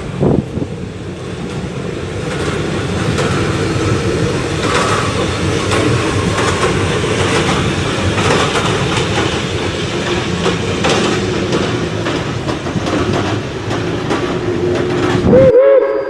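Steam train running, its cars rumbling and clattering on the track with irregular clicks and knocks. Near the end the rumble cuts off suddenly and a short wavering tone follows.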